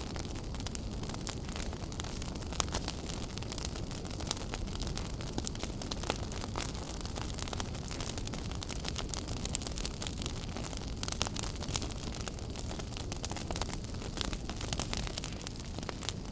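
Wood fire burning in a fireplace: a steady low rumble of flame with frequent small crackles and pops, a few sharper snaps standing out.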